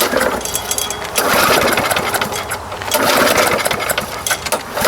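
Walk-behind lawn mower engine being pulled over on its recoil starter, with long loud stretches of rapid chugging, without catching: the engine has no spark.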